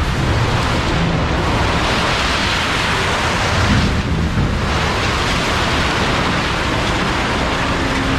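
Two-ram scrap baler running on a load of aluminum cans: a loud, continuous rumble with a dense rattling hiss that swells a couple of seconds in and dips briefly around four seconds.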